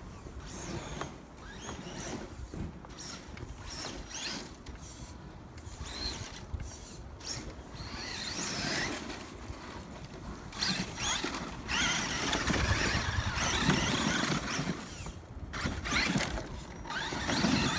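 Losi LST XXL2-E 1/8-scale electric monster truck's brushless motor and drivetrain whining, rising and falling in pitch as the throttle comes on and off, with rough noise from the tyres in dirt. It gets louder in the second half.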